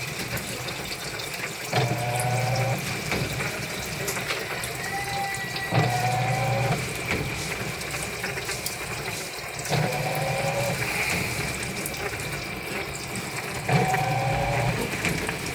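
Sharp top-load automatic washing machine at the start of its spin cycle: the motor hums in pulses about a second long, roughly every four seconds, while water runs out steadily through the drain. The drum is still turning slowly and has not yet reached full spin speed.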